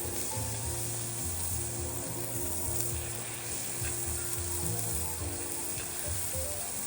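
Food frying in a pan, a steady sizzle with some stirring, with soft background music under it.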